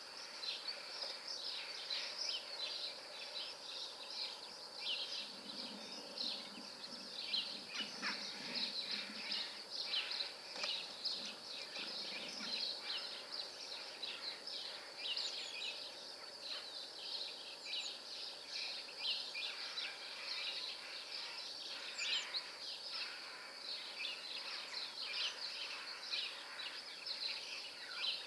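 Small birds chirping continuously, with many short high calls overlapping in a busy chatter.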